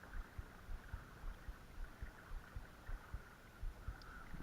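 Creek water running steadily, with irregular low thumps a few times a second.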